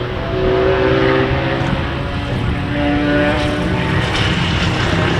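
Several motorcycle engines running on a race circuit, loud and continuous, their notes stepping and shifting in pitch as they rev and change gear.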